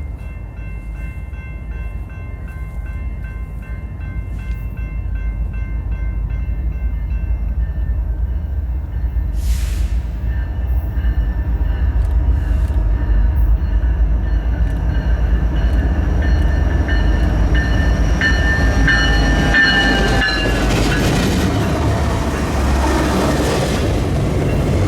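A diesel-hauled freight train approaching, its locomotive rumble growing steadily louder. The horn sounds in the distance early on and again, louder, about eighteen seconds in, as the train nears.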